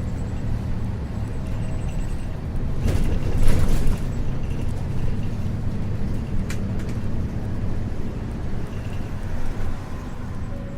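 Interior running sound of an Isuzu U-LV224N bus with its 6QB2 diesel engine, a steady low rumble with the engine note under it. A burst of air hiss comes about three seconds in, and a single sharp click follows a few seconds later.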